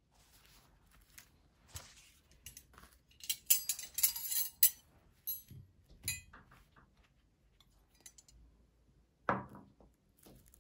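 Dishes and cutlery clinking, with a quick run of sharp clinks around the middle and one heavier knock near the end.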